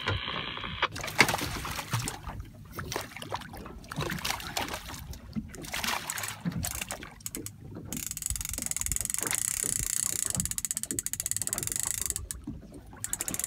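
A small shark thrashing at the side of a fishing boat: splashing water and knocks against the hull, with a rapid buzzing rattle for about four seconds in the second half.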